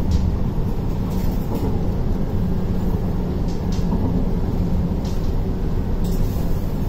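Steady low rumble inside an MTR Tuen Ma Line C-train carriage, with a few faint clicks.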